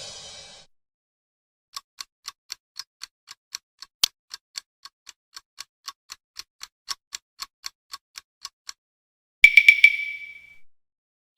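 Clock-style ticking, about four even ticks a second, starting about two seconds in and stopping after about seven seconds. Then a single bright ding rings out and fades over about a second.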